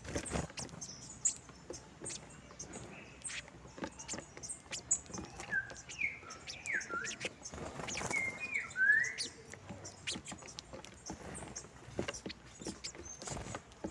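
Saffron finches calling: a run of short swooping chirps, dipping and rising in pitch, clustered between about five and nine seconds in, over scattered small sharp clicks.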